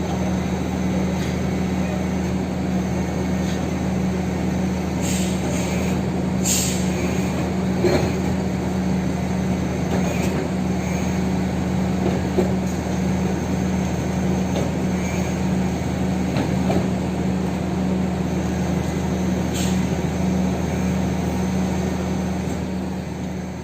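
Mitsubishi Fuso Super Great truck's diesel engine running steadily with a low hum, with a few short hisses about a third of the way in and again near the end.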